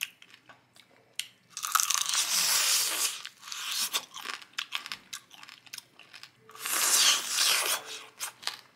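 Crunching of crispy deep-fried bacon being bitten and chewed close to the mouth: two long, loud spells of crunching, about two seconds in and again around seven seconds, with small crackly chewing clicks between them.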